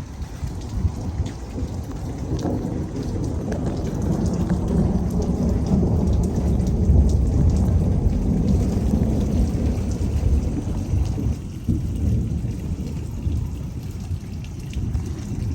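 Thunder rumbling over steady rain: a long, deep rumble builds from about two seconds in, is loudest around the middle and dies away past two-thirds of the way through.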